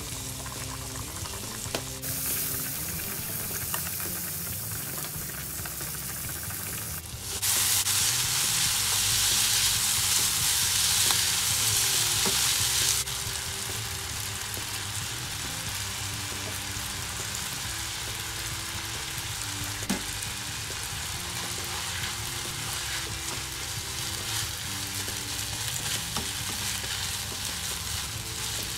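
Shrimp, garlic and spaghetti sizzling in butter in a frying pan, with the food being stirred and tossed. The sizzle grows much louder about seven seconds in for about five seconds, then settles back to a steady frying hiss.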